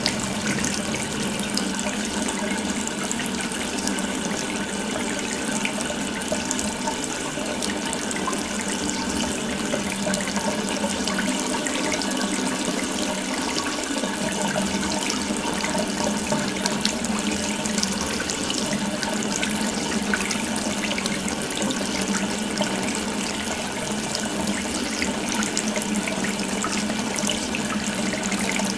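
Water running steadily from an open tap, an even splashing stream that does not change.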